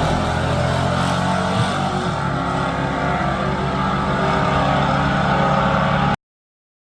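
Drag racing car engine running loudly with a steady drone, cutting off abruptly about six seconds in.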